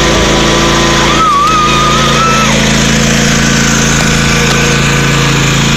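Tractor engine running steadily, just started with the key.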